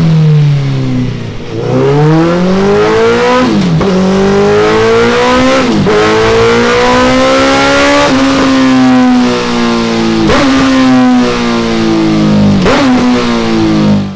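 Suzuki Hayabusa inline-four engine through a Delkevic DL10 carbon-fibre slip-on exhaust, running loud on a dyno. The revs fall at first, then climb repeatedly, each climb broken by a sharp drop about every two seconds, as with gear changes under acceleration. The sound cuts off suddenly at the end.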